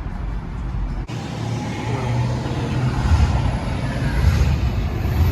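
ProCharger-supercharged C6 Corvette's V8 running with a low rumble; the sound changes abruptly about a second in.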